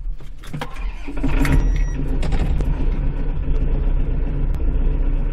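Kubota L5740 tractor's diesel engine, heard from inside the cab: a click, then the engine picks up about a second in and runs steadily.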